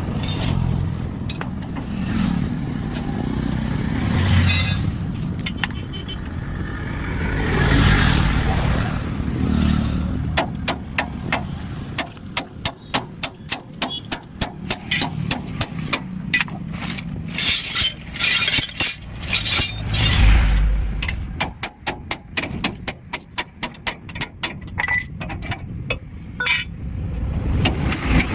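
Vehicle noise with a low rumble, then from about halfway a rapid, irregular run of sharp metal clinks and strikes from hammering on a truck's leaf spring.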